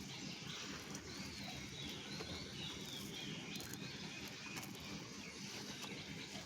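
Birds chirping in quick, short calls over a steady low background rumble.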